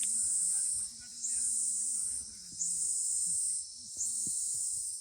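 Cicada buzzing in repeated high, hissing phrases about a second long, each starting with a slight rise, with short gaps between them, four phrases in all. Faint voices murmur underneath.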